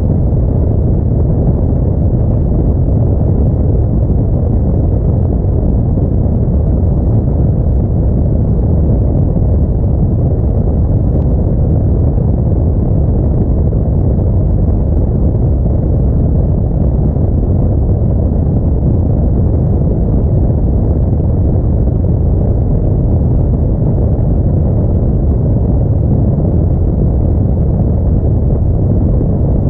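Steady low rumble of an Audi A4 on the move: road, tyre and engine noise mixed with wind, unchanging throughout.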